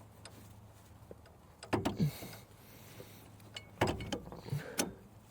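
Metal clanks and knocks from brake parts being handled on a pickup's front wheel, in two clusters: about two seconds in, then again around four to five seconds in.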